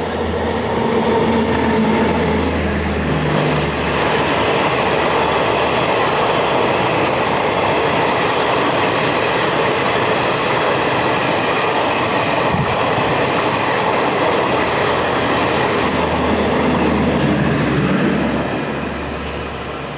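Garib Rath Express train passing close by, its wheels rolling loudly and steadily on the rails, with a brief high wheel squeal a few seconds in. The noise fades over the last couple of seconds.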